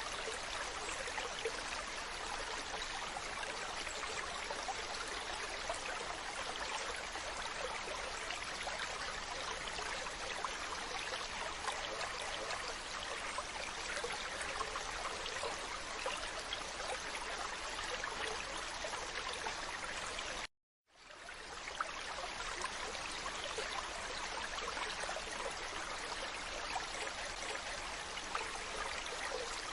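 Steady rushing, trickling water sound, cut off abruptly for a moment about 20 seconds in before fading back up.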